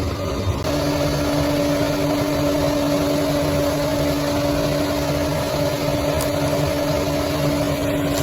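Bulldozer's diesel engine running steadily, with a steady whine that sets in under a second in and holds at one pitch.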